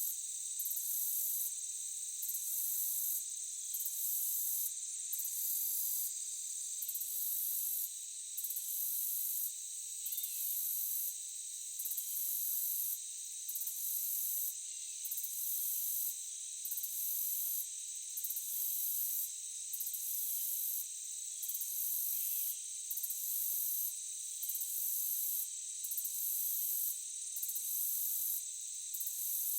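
Insect chorus: a high-pitched buzz that pulses on and off about every second and a half, over a steady shrill drone.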